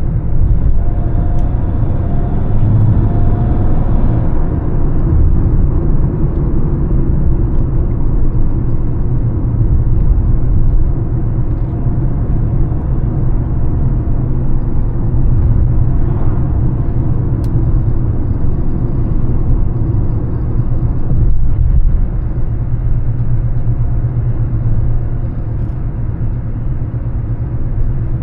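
Mercedes-Benz W211 E320 CDI diesel car on the move: a steady low rumble of engine and road noise, with no clear revving or shifts.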